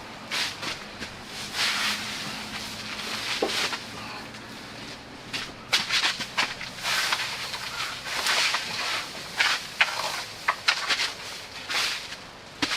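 Irregular rustling and scraping, a series of short, uneven strokes of noise, some louder in the second half.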